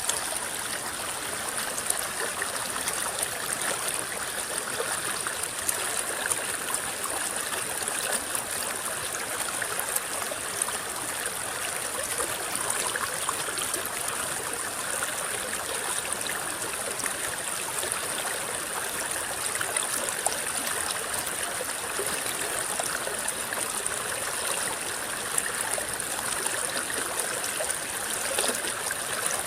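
A small river's water rippling and babbling over stones in a steady, even flow, with constant little splashes and trickles.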